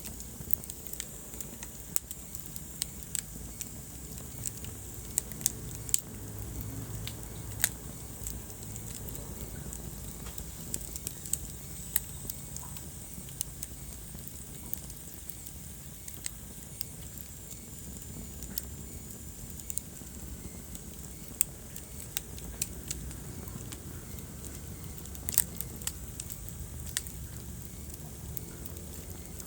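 Wood fire crackling in a fireplace, with irregular sharp pops, a few of them loud, over a steady low rumble.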